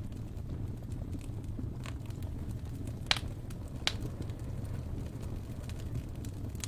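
Wood fire burning in a fireplace: a steady low rumble of flames with scattered small crackles and two louder pops about three and four seconds in.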